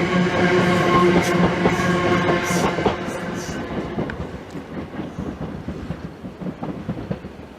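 Electric multiple-unit train running past: a steady motor hum with wheels clicking over rail joints, fading away after about three seconds.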